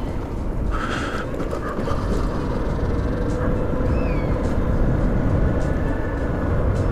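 Wind rumbling over the microphone and tyre noise from a CSC City Slicker electric motorcycle being ridden at a steady pace, with a faint steady whine from its electric motor. A short hiss comes about a second in.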